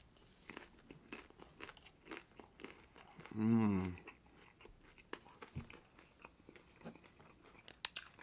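Close-up crunching and chewing of a Jack in the Box taco's deep-fried shell: many small sharp crackles. About three seconds in, the eater gives a short closed-mouth hum.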